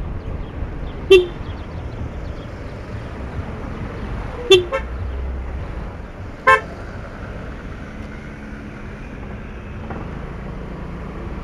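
Three short vehicle horn toots, about a second, four and a half seconds and six and a half seconds in, over a steady low rumble of a vehicle on the move in traffic.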